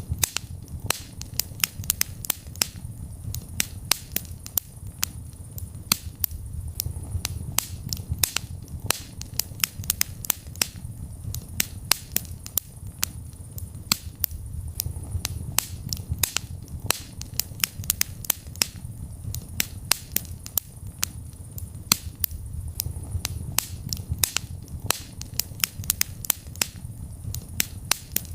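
Wood fire burning in a fireplace, crackling with many irregular sharp pops, several a second, over a low steady rumble of the flames.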